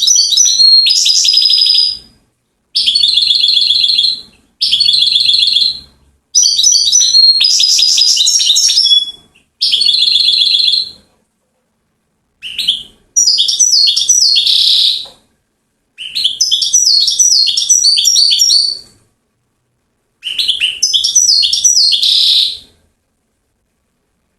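Goldfinch singing: a string of about nine fast, twittering, trilled phrases, each one to three seconds long, divided by short silent pauses.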